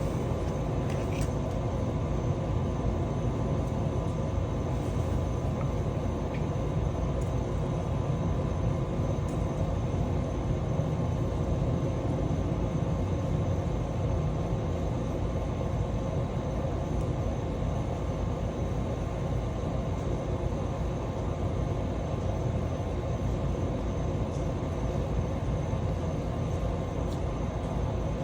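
A steady low rumble with a faint constant hum, unchanging throughout, with a couple of faint clicks about a second in.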